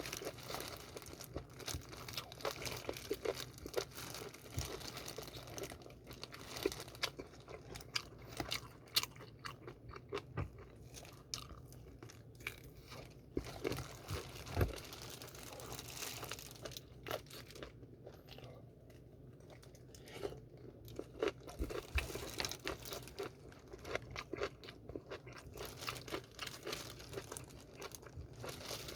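A person biting and chewing fried chicken close to the microphone: irregular crunchy bites and chewing sounds, with quieter stretches between them.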